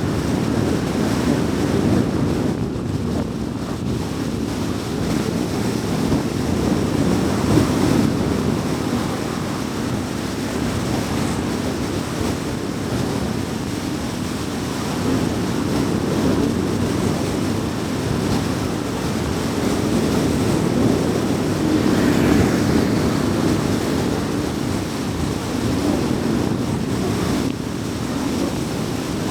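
Car driving on an expressway at speed: a steady rush of tyre, road and wind noise, swelling briefly about 22 seconds in.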